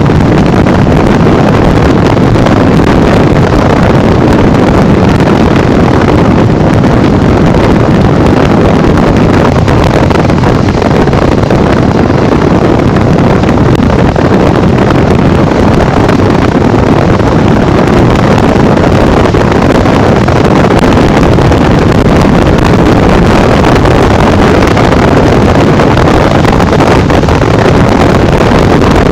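Loud, steady wind rush buffeting the microphone while riding a Honda Bros 150 motorcycle at speed on the highway, with the engine and road noise blended underneath.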